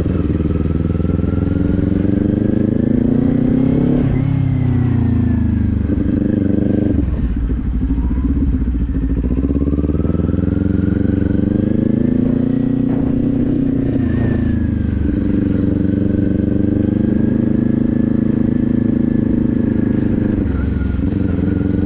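Motorcycle engine accelerating up through the gears: the engine note climbs, then drops sharply at each upshift, about three times, before settling into a steadier cruise.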